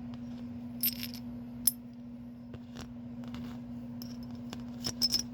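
Sharp metallic clicks and clinks of small steel Allen head screws being handled and tried in their mounting holes: two single clicks in the first two seconds and a quick cluster near the end, over a steady low hum.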